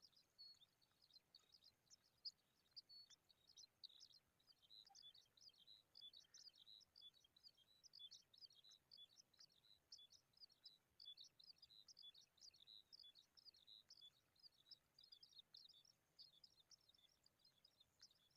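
Faint, continuous high-pitched chirping and twittering of small birds, many quick short notes a second.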